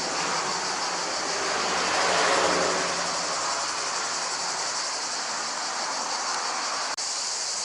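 Steady high-pitched chorus of summer insects, with a vehicle passing that swells to its loudest about two seconds in and then fades.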